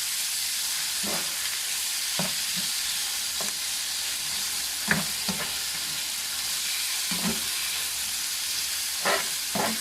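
Chicken liver, gizzards and heart sizzling steadily in hot margarine and oil, with short scrapes and knocks of a stirring utensil against the pan every second or two.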